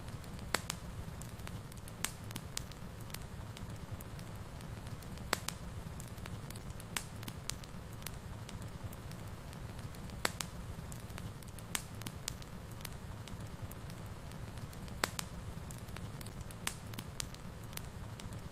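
Wood fire crackling in a fireplace, with irregular sharp pops and snaps over a steady low rumble of the burning fire.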